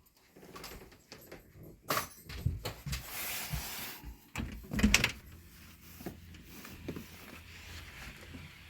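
A door being opened: several clicks and knocks, a brief rushing scrape about three seconds in, and a louder knock near five seconds, then a faint low background.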